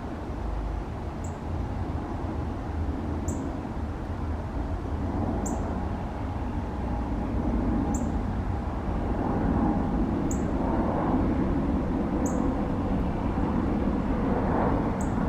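Wind rumbling on the microphone while an aircraft's engine noise builds gradually louder, with a faint whine in it. A faint high chirp repeats about every two seconds.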